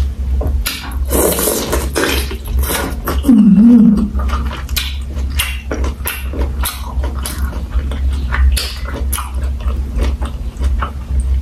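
Close-miked chewing and wet mouth sounds of someone eating boiled bull penis dipped in prahok, with many quick smacks and clicks. About three seconds in comes a short hummed sound with a wavering pitch, the loudest moment. A steady low hum runs underneath.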